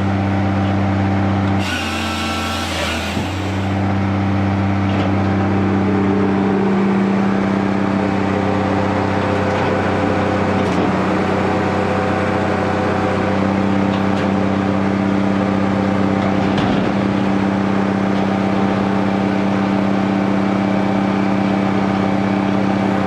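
Engine-driven firewood-processing machine running steadily at one pitch, with a short burst of harsher, noisier sound about two seconds in as wood goes through it.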